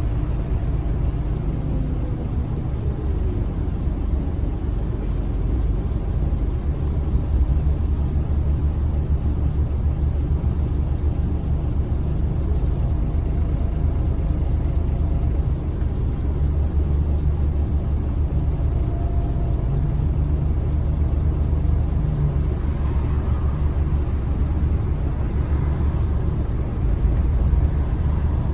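Scania L94UB single-decker bus running along with its engine at a steady low rumble, mixed with road noise.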